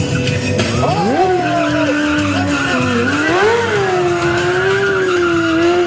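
Motorcycle engine revved up sharply about a second in, then held at high revs with slow rises and falls, with tyre skidding noise under it during stunt riding.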